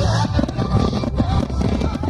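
Music playing over a fireworks display, with low rumbling booms and scattered sharp cracks from the shells.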